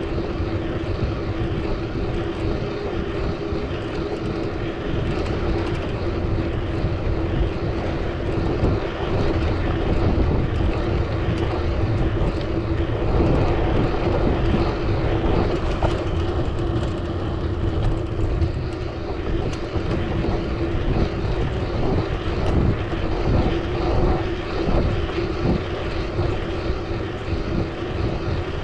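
Wind rumble on the microphone of a moving bicycle's camera, with a steady droning hum of road and traffic noise.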